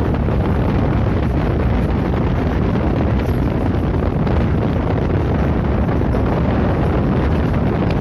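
Passenger train running at speed, a steady loud rumble of the carriage on the rails with wind buffeting the microphone.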